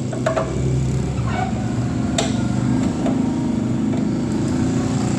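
A steady low motor drone, with a few sharp clicks from screws and metal parts being handled; the clearest click is about two seconds in.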